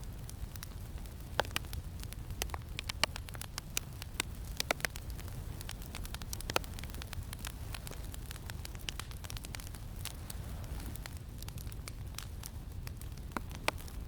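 Campfire crackling: irregular sharp pops and snaps, thicker in the first half, over a steady low wind rumble.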